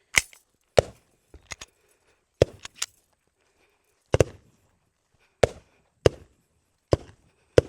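Gunshots: about ten single shots at irregular intervals, each a sharp crack with a short echo after it.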